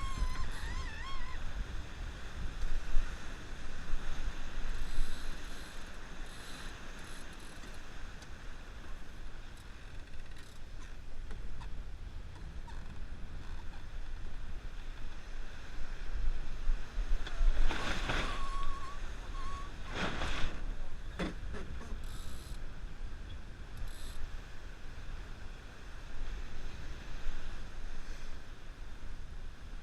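J109 racing yacht under way downwind: a steady rush of wind and water with creaking and clicking from the deck gear (blocks, winches). A little past halfway come two louder rushes, the first carrying a short whine.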